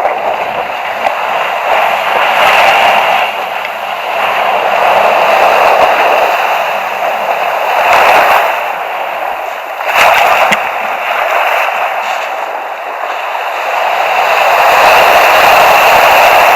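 Surf at the shoreline: waves breaking and washing in a loud rushing noise that swells and eases several times.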